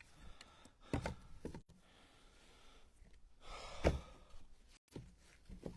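A few separate wooden knocks and thuds as split ash firewood pieces are set onto a stack in a pickup truck bed. The loudest thud comes a little before the end.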